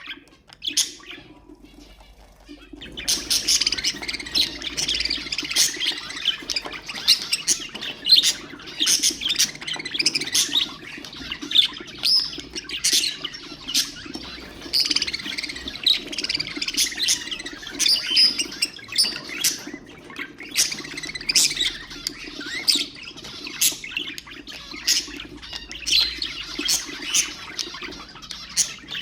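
Budgerigars chattering: a dense run of overlapping chirps and squawks that starts about three seconds in, after a brief lull.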